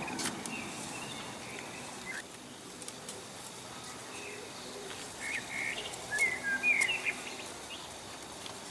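Small birds chirping in short, high calls. There are a few near the start and a louder cluster around six to seven seconds in, over a steady outdoor hiss.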